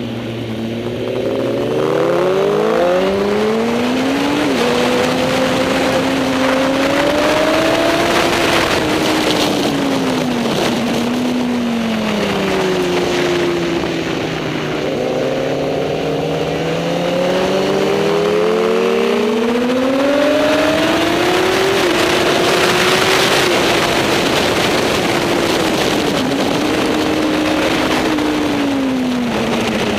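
Superbike racing motorcycle engine running hard, its pitch climbing as it accelerates and dropping as it slows, over and over.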